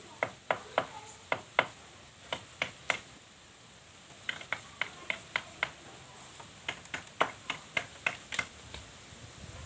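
A series of short, sharp knocks in irregular clusters, about three a second within each cluster, with a pause of about a second near the middle.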